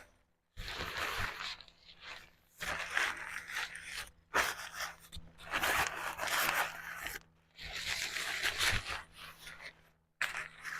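Fabric-and-mesh window screen cover being handled and folded down small, rustling and scraping in about five long stretches with short pauses between.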